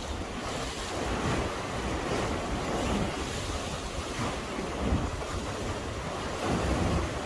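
Sea swell washing against a breakwater, with wind buffeting the microphone.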